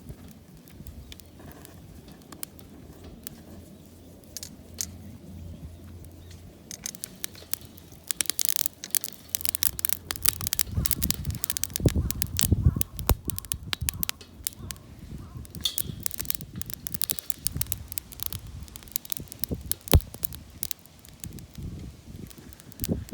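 Wood fire of tree-root firewood crackling and popping in a wood-burning stove. It is fairly quiet for the first several seconds, then the sharp snaps come thick and fast from about seven seconds in.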